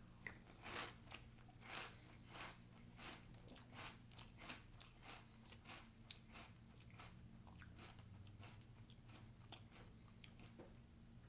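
A person chewing a mouthful of crunchy Marshmallow Cocoa Pebbles cereal in milk: faint crunching chews about twice a second, growing weaker toward the end.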